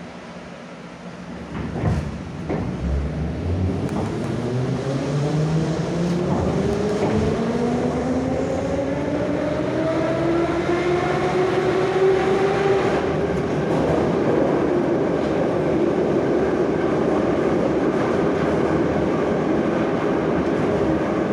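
Moscow Metro 81-717/714 'Nomernoy' train pulling away, heard from inside the car: a couple of knocks about two seconds in, then the traction motors' whine rising steadily in pitch for about ten seconds as it accelerates, before settling into steady running noise with wheels on the track.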